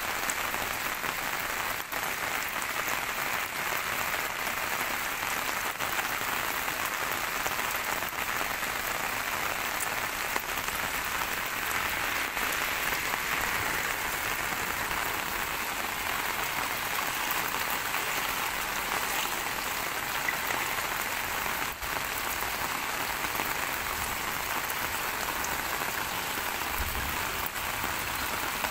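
Heavy monsoon rain falling steadily on floodwater and a wet road, an even, unbroken rush of rain noise.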